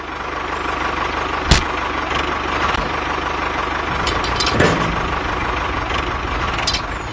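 A motor running steadily with an even low pulsing, broken by a sharp click about a second and a half in and a softer knock about three seconds later.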